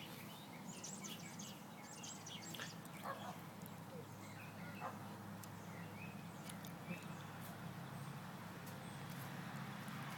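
Faint chirps and tweets from small birds, coming in quick runs in the first few seconds and then more sparsely, over a steady low hum.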